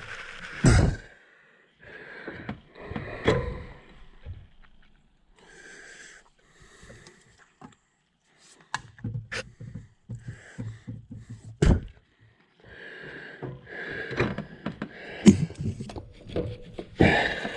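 Hand-tool work on truck engine-bay parts: scattered sharp knocks, with a quick run of clicks in the middle and rustling between them.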